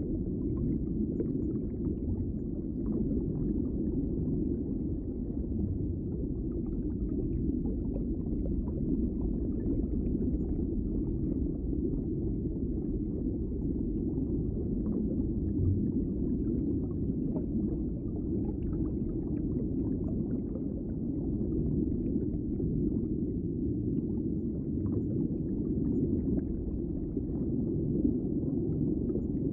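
Underwater ambience: a steady, muffled low rumble of water with faint scattered crackles.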